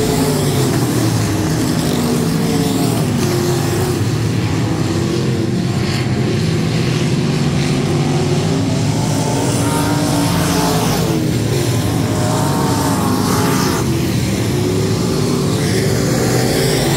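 Several USRA Limited Modified dirt-track race cars with V8 engines running hard on track together, their engine pitch rising and falling as they go through the turns and down the straights.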